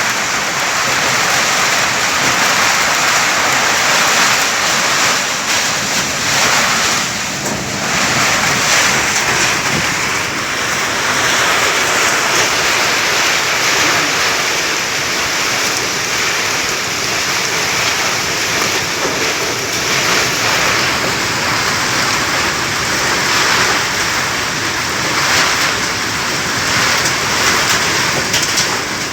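Sandstorm wind rushing in a loud, steady hiss that swells and eases, with a brief lull about seven seconds in.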